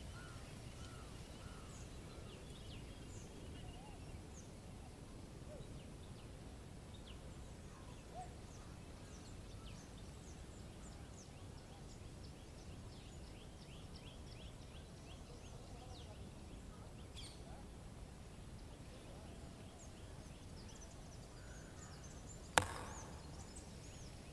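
Nature ambience: small birds giving short, scattered chirps over a steady low rumble. One sharp click near the end is the loudest sound.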